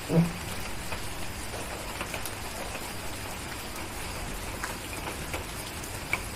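Steady rain with scattered small pops and clicks from a crackling fireplace. A short low thump comes just after the start.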